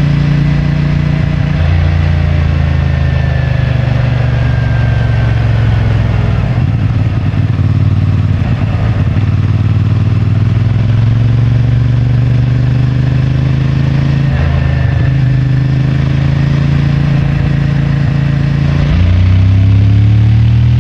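CFMoto 450MT's parallel-twin engine and stock exhaust running under way, its pitch falling and climbing several times with throttle and gear changes, then revving up and getting louder near the end.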